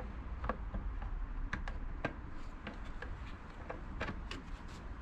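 Scattered light clicks and taps at an irregular pace of parts being handled and fitted back on in a car's engine bay, over a low steady background rumble.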